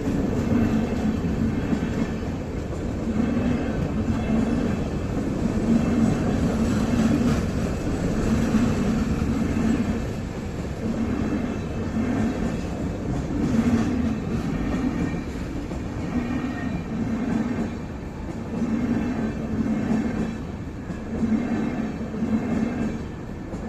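A moving train hauled by a WDP4B diesel-electric locomotive, making a steady rumble with a low drone that swells and fades about once a second. No horn sounds.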